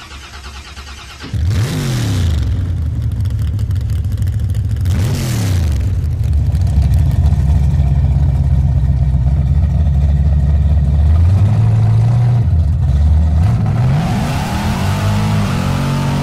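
A car engine running and revving: a steady low drone with three revs that rise and fall in pitch, about a second and a half in, about five seconds in and near the end, the first two with a rushing hiss.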